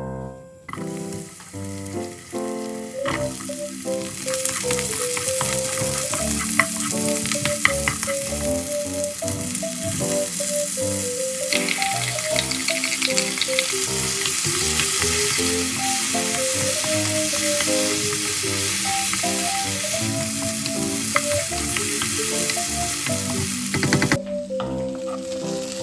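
Onion, garlic and Vienna sausages sizzling and crackling in oil in a frying pan as they are stir-fried. Soft piano music plays under it. The sizzling starts about a second in, grows louder about halfway through and cuts off near the end.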